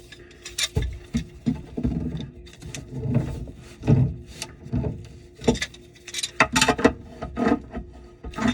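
Irregular clattering, knocking and scraping of parts and tools being handled during under-sink drain and disposal work.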